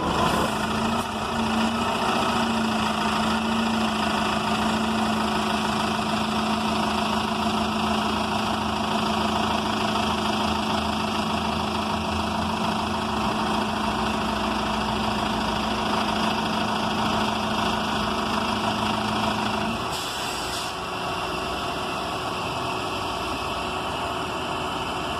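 New Flyer XN40 bus's Cummins Westport ISL G natural-gas engine idling steadily. About 20 seconds in a steady hum stops with a short hiss, and the engine carries on a little quieter.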